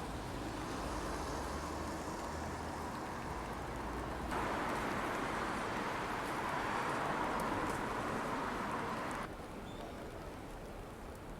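Steady rain falling in a city street, with a low hum of road traffic. The sound steps up abruptly about four seconds in and drops back near the end.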